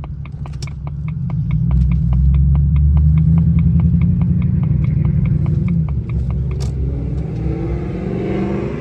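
Jaguar XJR's supercharged V8 pulling hard under acceleration, heard from inside the cabin. The engine swells about a second and a half in, holds loud, then its note drops near six seconds, with a steady rapid ticking of about five clicks a second until road noise rises near the end.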